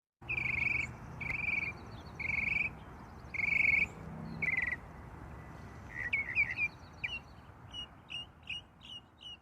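A bird singing: five buzzy, trilled notes about a second apart, then a quicker run of short chirps from about six seconds in. A steady low background noise runs beneath.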